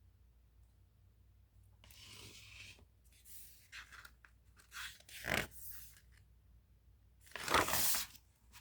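Paper rustling and scraping from a picture book being handled, as in pages turning and the book closing, in a string of irregular rustles beginning about two seconds in, the loudest near the end.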